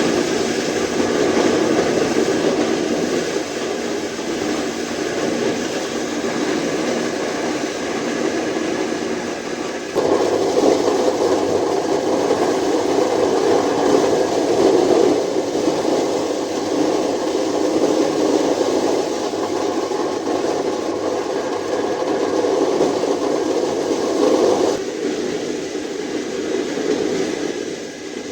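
A loud, steady rushing noise without a clear beat or pitch. It jumps louder abruptly about ten seconds in and drops back near the end.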